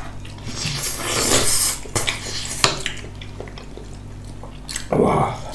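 Eating utensils clinking and tapping against bowls during a meal, a few sharp taps, with a louder rustling sound near the end.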